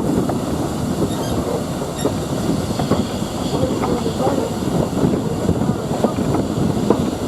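Train running along the track, its wheels clattering and knocking over the rails in a steady, loud rumble.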